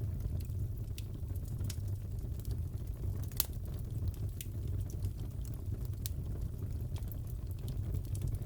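Wood fire crackling in a fireplace: a steady low rush with scattered sharp pops and snaps, the loudest about three and a half seconds in.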